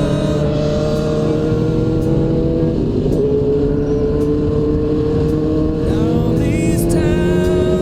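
2002 Suzuki GSX-R1000's inline-four engine pulling under throttle, its pitch climbing slowly, dipping briefly about three seconds in, then climbing again, over rushing wind noise.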